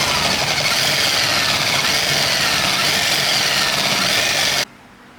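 Concrete chisel machine (demolition hammer) running loud and steady, stopping suddenly near the end.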